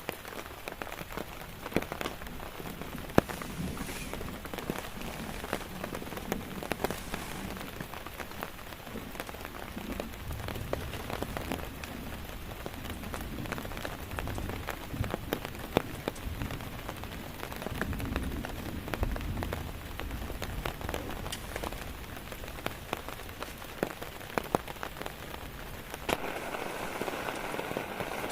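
Rain falling on a tent, a steady hiss with many scattered sharp drop hits. Near the end the rain turns to a steadier, brighter hiss.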